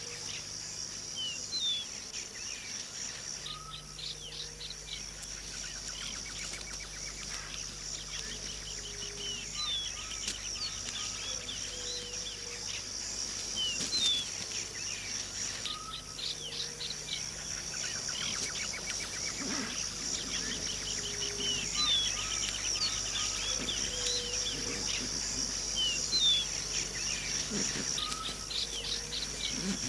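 Subtropical forest ambience: a steady high insect drone under several birds calling, with short high chirps and low whistled notes that recur every few seconds.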